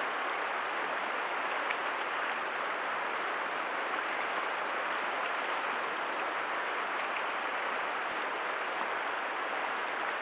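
Steady rush of running stream water, with a few faint clicks.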